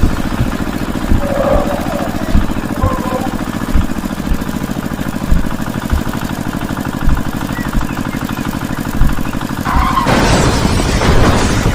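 Small motor of a homemade mini excavator-tractor running steadily with a fast, even pulse, with a louder knock about every second and a half. A louder rushing noise joins near the end.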